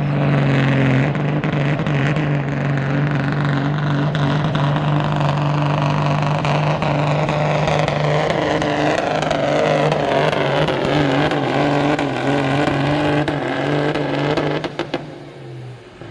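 Semi truck's diesel engine working hard under load pulling the sled, holding a steady pitch, then falling away sharply about fifteen seconds in.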